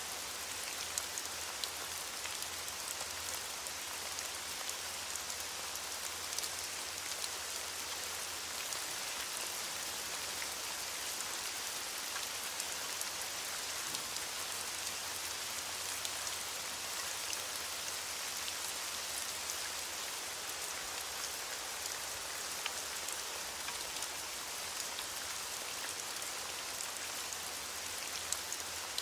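Steady heavy rain falling and pattering on surfaces, a dense even hiss dotted with individual drop ticks.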